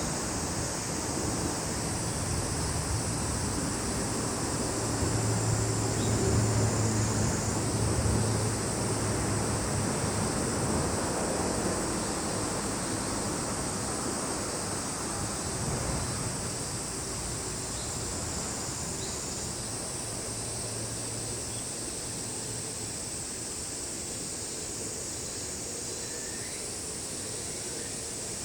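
Steady high-pitched chorus of summer insects trilling together, its pitch shifting in small steps now and then. A low engine hum swells and fades during the first half, louder around six to eight seconds in, and returns more faintly near twenty seconds.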